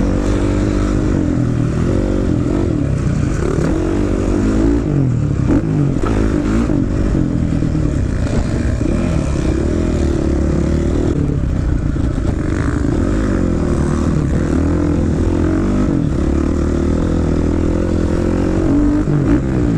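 Honda CRF450 single-cylinder four-stroke dirt bike engine being ridden hard, its pitch rising and falling again and again as the throttle is opened and closed.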